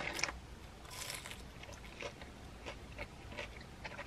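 A person chewing a fried mozzarella stick, with soft mouth clicks and smacks.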